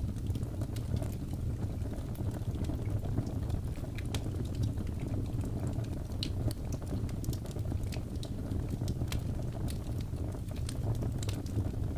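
Wood fire burning steadily: a low, even roar of flames with frequent irregular crackles and small pops of burning wood.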